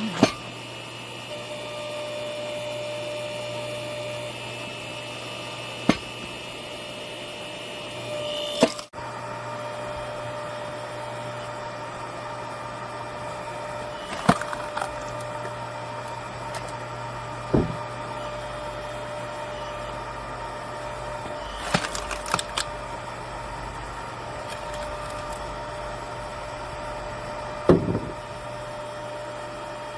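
Hydraulic log splitter running steadily while it splits firewood. Sharp cracks of the wood splitting apart come every few seconds, about seven in all.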